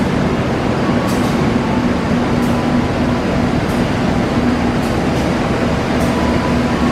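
Passenger train coaches rolling slowly past on station track: a loud, steady running noise with short clicks every second or so.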